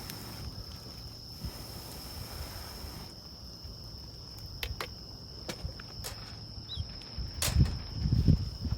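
An insect trilling steadily at one high pitch throughout, with a few sharp clicks in the second half and low thumps and rustling near the end.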